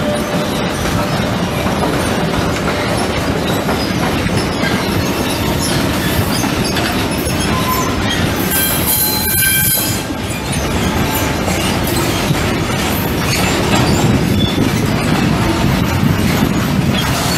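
Freight train wagons rolling past on the rails: a steady rumble and clatter of steel wheels over the track. A brief high-pitched wheel squeal comes about nine seconds in.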